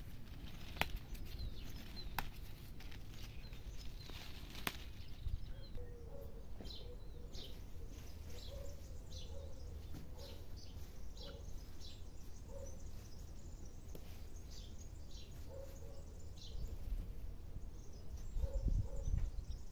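Small birds chirping, a run of short high chirps through the middle, with a few sharp clicks in the first five seconds and a low rumble near the end.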